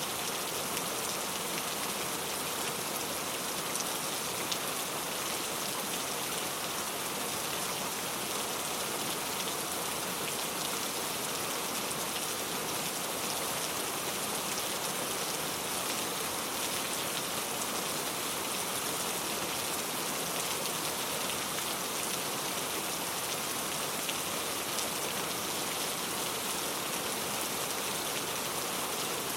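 Steady rain falling, a constant even hiss of many drops pattering on a surface with fine scattered drop ticks.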